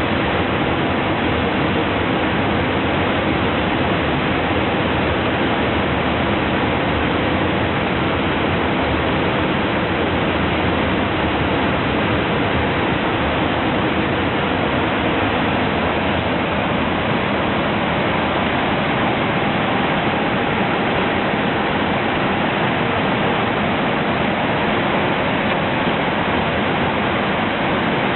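Steady rushing noise of an Airbus airliner's cockpit in cruise flight: airflow over the fuselage and windscreen mixed with air-conditioning noise, unchanging throughout.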